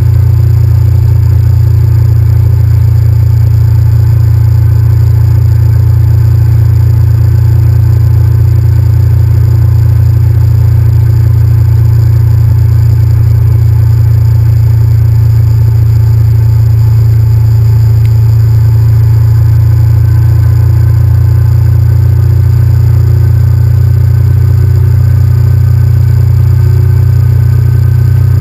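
Honda VTR1000F's 90-degree V-twin running at a steady cruise, heard as a loud, unchanging low rumble of engine and wind noise on the camera's microphone.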